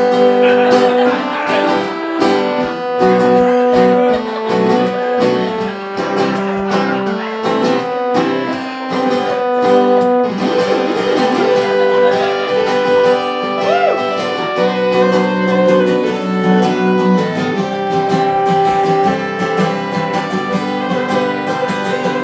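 Instrumental break of a song: strummed acoustic guitar with a melody line played over it.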